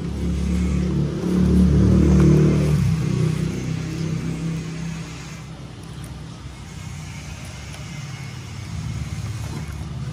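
A motor vehicle's engine running with a low hum that grows louder about a second in and fades after about three seconds. A plastic bag rustles faintly as a boxed case is slid out of it.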